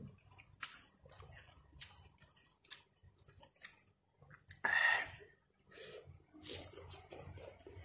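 A person chewing crisp raw fruit dipped in thick rujak sauce, close to the microphone: irregular crunches and mouth clicks, with one louder, longer mouth sound about five seconds in.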